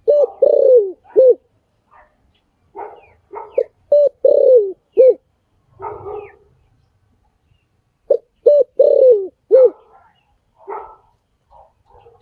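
Spotted dove cooing: three groups of three low coos, each note falling at its end, one group about every four seconds, with softer murmuring notes between the groups.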